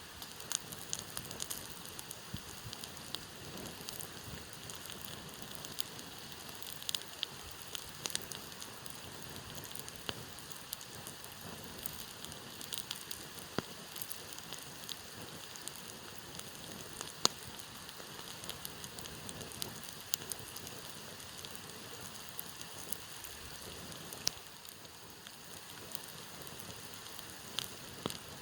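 Campfire burning, a steady hiss with irregular sharp crackles and pops, one louder pop just past the middle.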